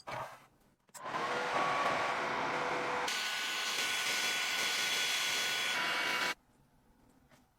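A power tool runs with a steady hissing, rushing noise, starting abruptly about a second in, getting brighter partway through, and cutting off suddenly after about five seconds. A short, brief noise comes just before it.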